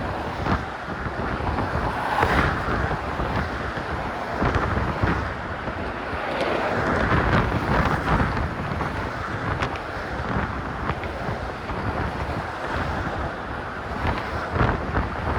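Strong, gusting wind buffeting a phone's microphone: a dense rushing noise that swells and falls in gusts.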